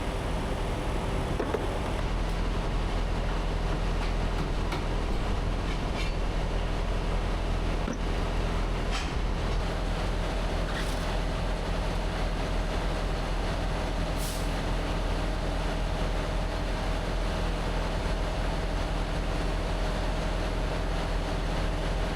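Semi truck on the move: a steady drone of diesel engine and road noise.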